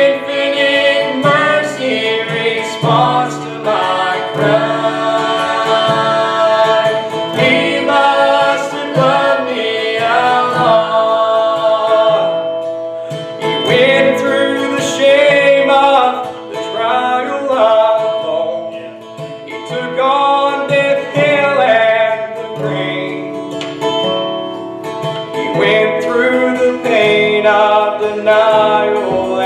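Instrumental break of a country-style gospel song, with guitar and other plucked string instruments playing the melody.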